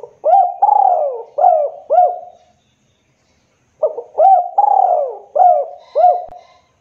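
Spotted dove cooing: two phrases of about five coos each, the second phrase starting about four seconds in.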